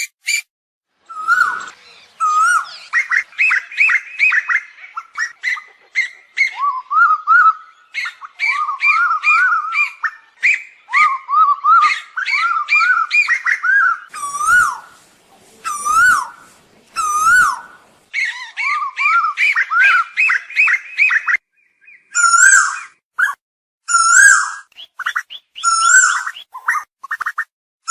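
Asian koel calling: rapid runs of short, looping whistled notes, repeated in bouts with short pauses between them.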